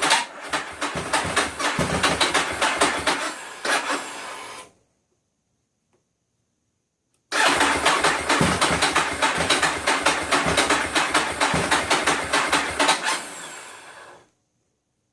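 Ducati 1198 SP's L-twin engine being cranked on the electric starter in two long bouts, about two and a half seconds apart, coughing without catching, each bout tapering off: a hard start.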